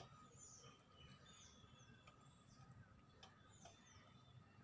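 Near silence with a bird chirping faintly in the background: short falling chirps, roughly one a second.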